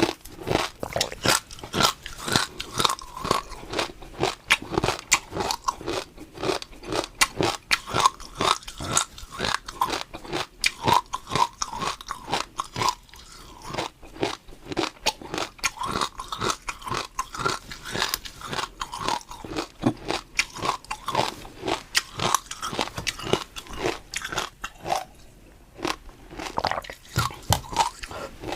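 Close-up chewing of crunchy food: a dense run of crisp crunches and bites, with a couple of brief pauses.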